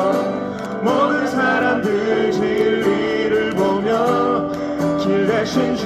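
A singer singing a Korean worship song over guitar accompaniment, holding and bending long sung notes.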